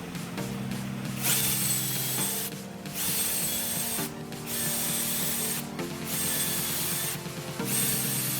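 A power tool runs in five bursts of about a second each, separated by short pauses, with a steady high whine in each burst. Background music with held chords plays underneath.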